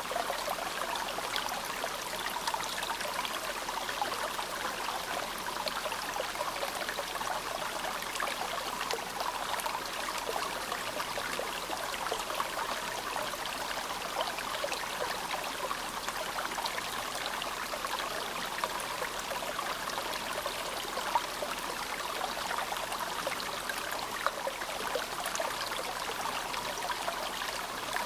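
Shallow, clear mountain river (the Azusa) babbling steadily, a continuous rush of water with many small splashes and trickles.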